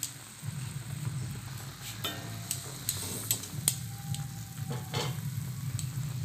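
Thick chutney mixture sizzling and bubbling in hot oil in a wok as it is stirred, with a few sharp clicks of the spoon against the pan in the middle.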